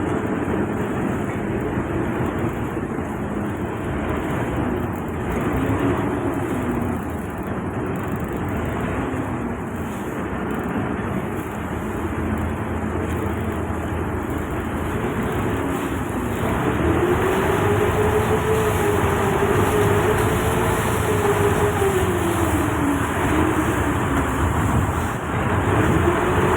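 River boat's engine running with water and wind noise, its pitch rising and falling slowly a few times, and louder in the second half.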